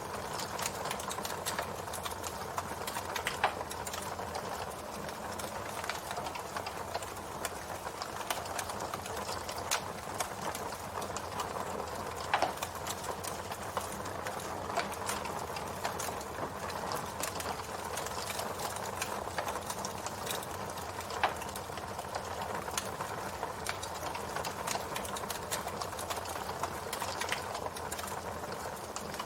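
Campfire burning: a steady hiss with frequent small crackles and three louder pops spread through.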